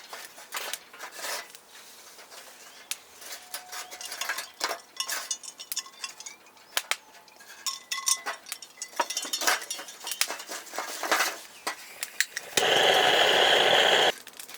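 Metal camp cookware and utensils clinking and knocking in a quick irregular series. Near the end comes a loud steady hiss lasting about a second and a half, which cuts off suddenly.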